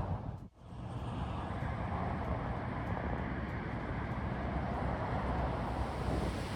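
Steady rushing outdoor noise, with a brief dropout about half a second in.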